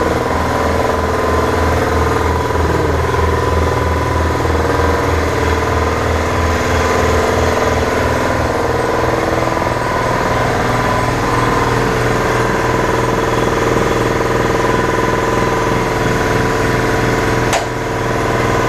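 Motor running steadily with a low mechanical hum, and one sharp crack near the end as a weld snaps loose.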